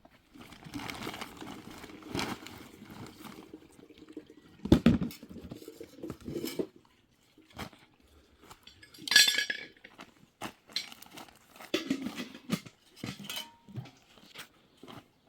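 Dishes and cutlery clinking and knocking in irregular clatters, with a heavier thud about five seconds in and a short bright hiss about nine seconds in.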